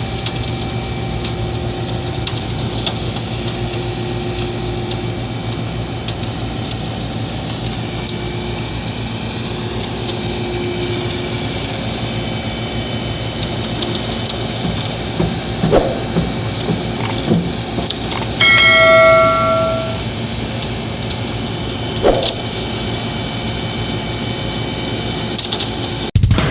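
Heavy machinery engine running steadily, with a few knocks and, about two-thirds of the way in, one loud horn-like tone lasting about a second and a half.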